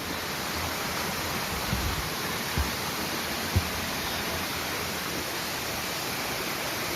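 Waterfall's steady rush of falling water. A few brief low thumps break through about two seconds in and again near three and a half seconds.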